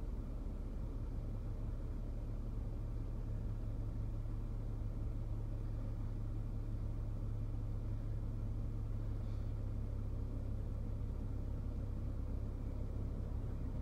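A car's engine idling while stopped, a steady low rumble heard from inside the car.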